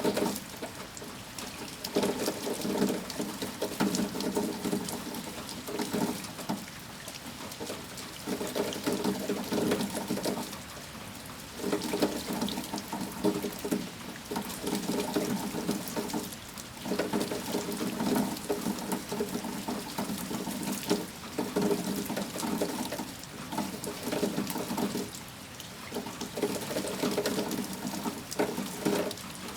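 Rain falling, with running, splashing water that swells and eases every few seconds.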